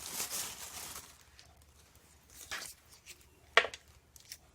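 Rummaging among small parts on a workbench while searching for a length of threaded rod. A rustle lasts about a second, then three light clicks and knocks; the sharpest comes about three and a half seconds in.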